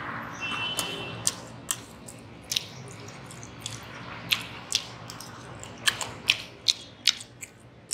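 A person chewing food close to the microphone, with a dozen or so sharp wet mouth clicks and smacks, and a spoon scooping from a small bowl.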